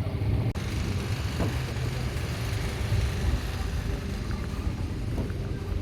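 Engine of the pleasure boat Summer Queen running with a steady low rumble.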